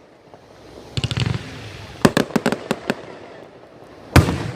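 Fireworks bursting: a cluster of crackling bangs about a second in, a run of sharp reports about two seconds in, and one loud boom just after four seconds.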